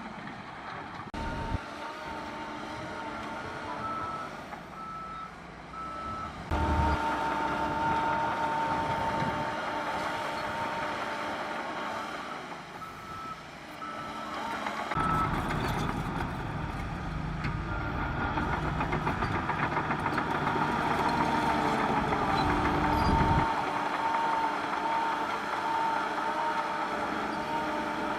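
Reversing alarm beeping at an even pace over the running diesel engines of heavy earthmoving machines. The engine rumble grows heavier for several seconds about halfway through.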